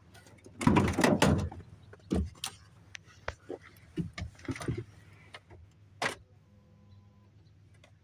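A run of knocks, clicks and rattles, loudest about a second in, from a person getting into the vehicle and handling its door before cranking the cold Ford 351 Windsor. A faint brief hum follows near the end.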